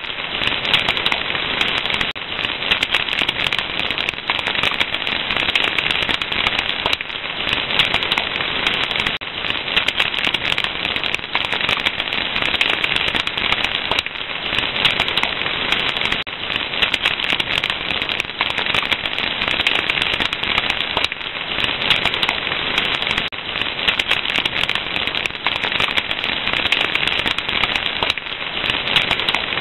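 Wood fire crackling, a dense, steady run of small pops and snaps that never lets up.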